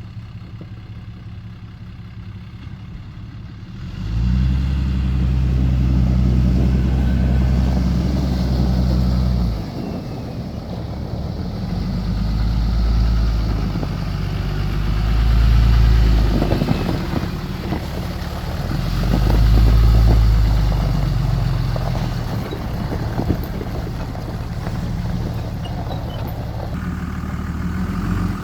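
Pickup truck engine running at low speed while the truck and trailer are maneuvered into a camp spot. It idles at first, revs up sharply about four seconds in and holds for several seconds, then rises and falls three more times.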